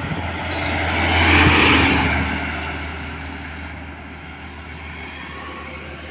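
A large road vehicle passing by, most likely a truck: its engine and tyre noise swell to a peak about a second and a half in, then slowly fade away.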